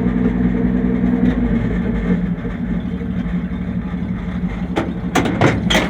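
A 1966 Chevy C10's 250 inline-six engine idling steadily, with a few short clicks near the end.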